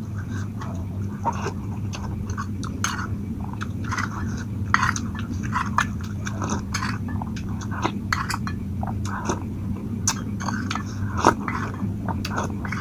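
Close-up eating sounds: a person chewing and biting, with many short wet smacking clicks at an irregular pace, over a steady low hum.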